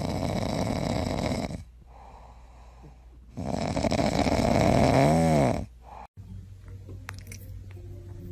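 Loud snoring: two long snores, the second ending in a short whine that rises and falls in pitch.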